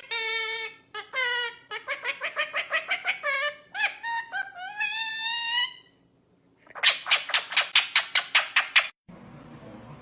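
A pet bird's squeaky, high-pitched calls, several of them rising in pitch. After a short pause comes a fast run of sharp repeated calls, about five a second for two seconds, which stops suddenly near the end.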